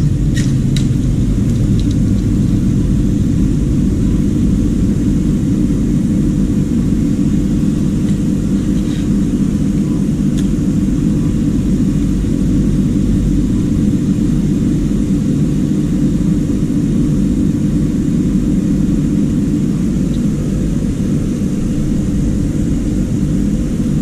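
A loud, steady low rumble with a faint hum, unchanging throughout, with a few faint ticks.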